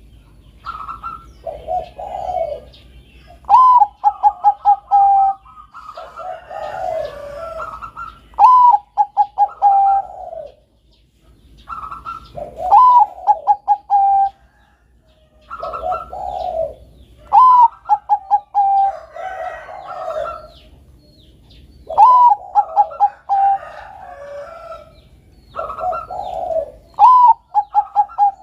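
Bangkok-strain perkutut (zebra dove) singing its cooing song over and over. Each phrase is a higher opening coo followed by a quick run of short, clipped notes, and a new phrase comes about every four to five seconds, with softer, lower coos in between.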